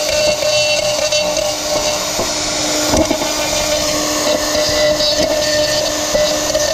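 Small high-speed electric power tool running steadily with a constant whine, with a few brief knocks about three seconds in.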